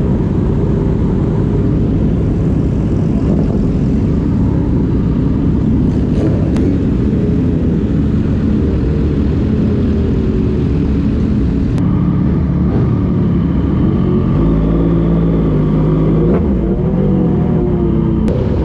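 Motorcycle engine running under way, its pitch rising and falling with throttle and gear changes, with several quick rising sweeps near the end.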